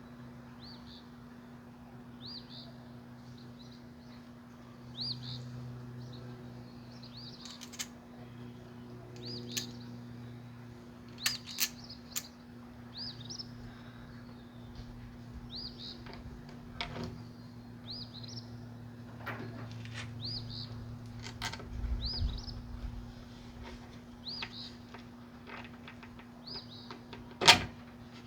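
A small bird chirps over and over, a short high call about every second. Scattered clicks and knocks from tools and hardware being handled come through it, the loudest a sharp knock near the end, over a steady low hum.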